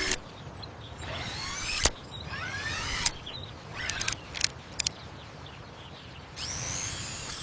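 Mechanical transformation sounds: whirring that sweeps up and down in pitch over a steady low rumble, with sharp clicks and clanks about two seconds in, around three seconds, and several more between four and five seconds.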